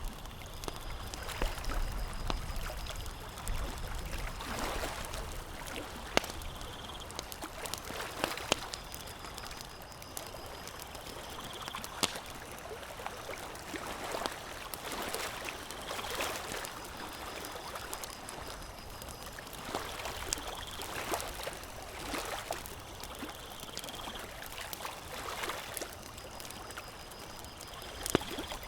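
Small waves lapping at a lake shore in uneven swells, with occasional sharp pops from a crackling campfire. A faint high note recurs every few seconds.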